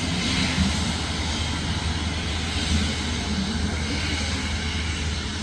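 Airbus A350-900 airliner's Rolls-Royce Trent XWB turbofan engines running, a steady, even rush of jet noise.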